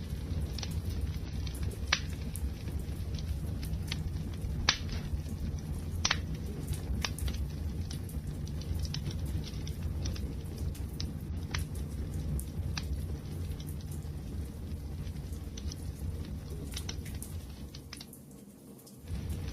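Fire burning with a steady low rumble and scattered sharp crackles and pops, several of the loudest in the first few seconds. The sound dips briefly near the end.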